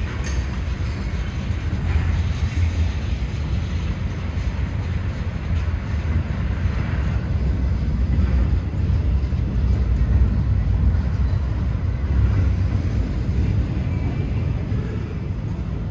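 Norfolk Southern freight train rolling past, a steady low rumble with no wheel squeal.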